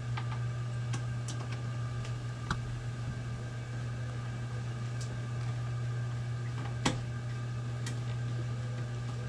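A steady low hum, with a few small scattered metal clicks of screws being started into a desktop computer case and drive tray, the sharpest about seven seconds in.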